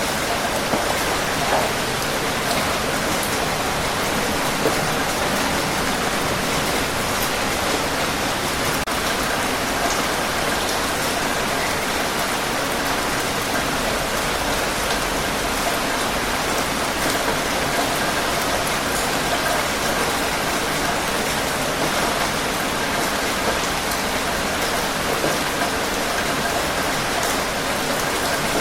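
Steady rain falling, a dense even hiss with scattered drop patters.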